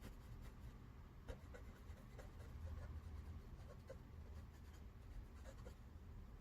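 Faint scratching and rubbing of small strokes on paper as a card is coloured and blended by hand.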